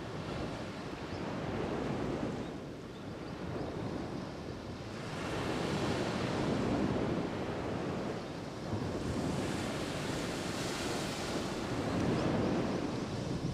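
Ocean waves breaking and washing up the shore, the surf swelling and ebbing in rushes every few seconds, with some wind on the microphone.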